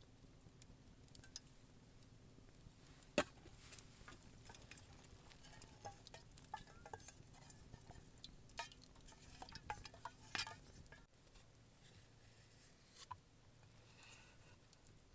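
Light clinks and knocks of cooking utensils against pots and dishes, scattered and soft, with one sharp knock about three seconds in and a quick cluster near ten seconds. A faint low hum underneath stops suddenly about eleven seconds in.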